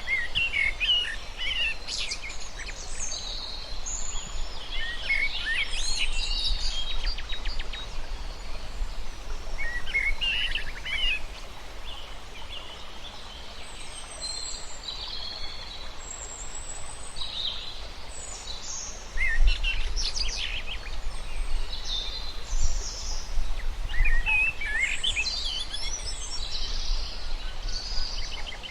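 Several birds chirping and singing in short, overlapping calls and trills, some high and thin, over a low steady outdoor rumble that swells in the second half.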